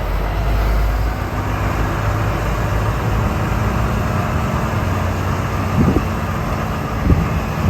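Car-hauler truck driving at highway speed, a steady low rumble of tyres and engine heard from inside the cab, with two short knocks near the end.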